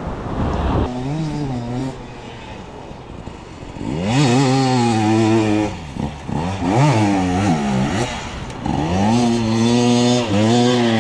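Dirt bike engine revving up and down over and over as the throttle is worked, louder from about four seconds in.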